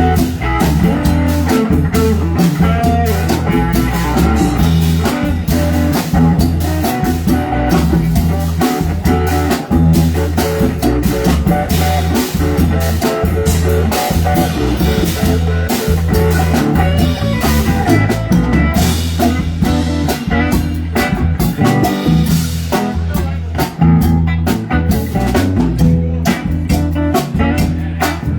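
Live rock band playing an instrumental passage: electric guitar over bass and a drum kit, with a bluesy feel.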